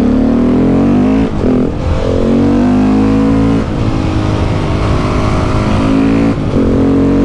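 KTM 690 SMC R single-cylinder engine through a Leo Vince exhaust, pulling hard under acceleration. The note climbs in pitch, then drops briefly three times as the gears are changed.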